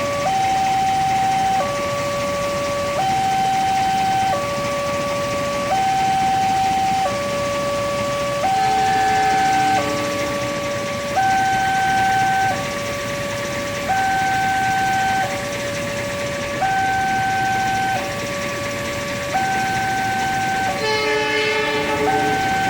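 Railway level-crossing warning alarm sounding, two tones alternating high-low with each held about a second and a half. Near the end another horn-like tone joins briefly for about a second.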